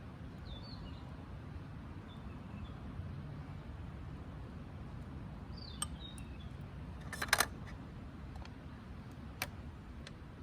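Outdoor ambience: a steady low rumble with faint small-bird chirps. A few sharp clicks stand out, the loudest a short clatter about seven seconds in.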